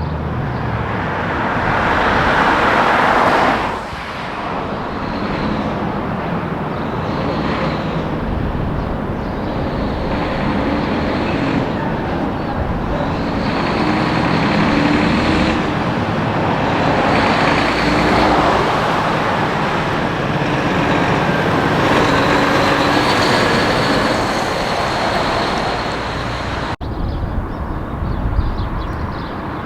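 Highway traffic with heavy trucks passing one after another, engine and tyre noise swelling and fading with each vehicle. The sound changes abruptly near the end.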